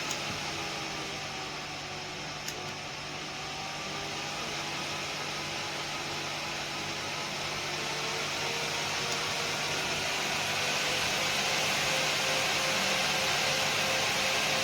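The small electric fan of a fan-cooled work vest running: a steady rush of air with a faint whine that slowly drifts in pitch, growing a little louder over the second half. A small click sounds a couple of seconds in.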